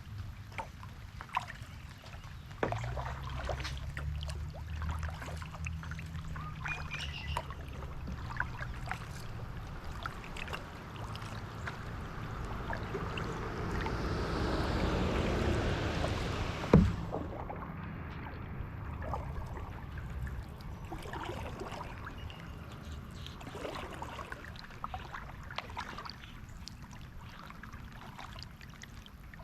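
Kayak paddling: water dripping and splashing off the paddle and hull, with scattered small ticks of drops. A swell of splashing builds and ends in one sharp knock, like the paddle striking the kayak, about two-thirds of the way through. A low rumble is heard for several seconds near the start.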